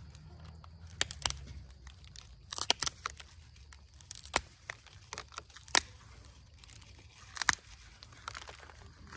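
Flakes popping off an Onondaga chert point under an Ishi stick pressure flaker as the tip is sharpened and shaped: a series of sharp, short snaps at irregular intervals, a few of them in quick pairs.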